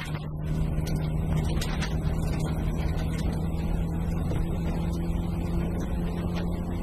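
VW Golf rally car's engine pulling hard at a steady pitch, heard from inside the car and getting louder just after the start. Underneath is gravel road noise with scattered clicks.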